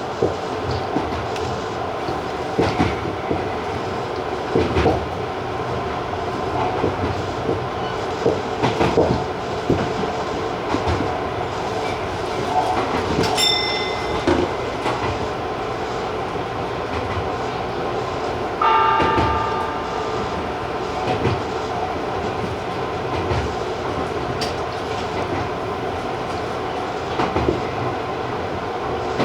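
Electric commuter train running at speed, heard from the cab: steady running noise with irregular wheel clicks over rail joints. A short high tone sounds about halfway through, and a brief, louder tonal sound lasts about a second and a half a little later.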